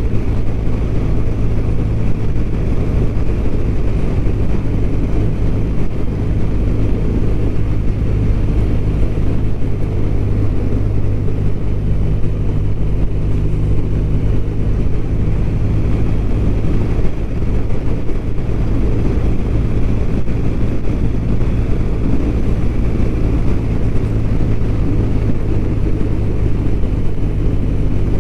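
BMW R1200RT's flat-twin engine running at a steady speed while the motorcycle is ridden, its pitch holding level throughout.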